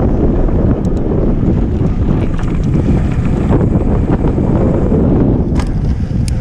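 Heavy wind buffeting the microphone of a mountain bike's on-board camera while riding, with a few sharp clicks and knocks from the bike over rough ground, about a second in and near the end.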